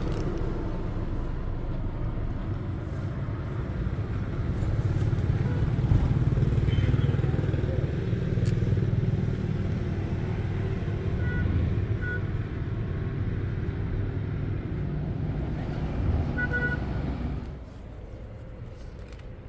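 A car's engine running with a steady low rumble that swells a little around six seconds in, and a few short high beeps in the middle. The rumble drops away suddenly near the end.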